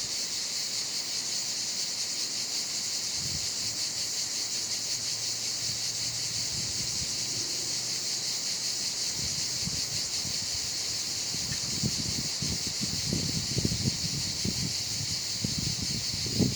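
Cicadas buzzing in a steady, unbroken high drone that stops abruptly just after the end, with light rustling and handling noises in the second half.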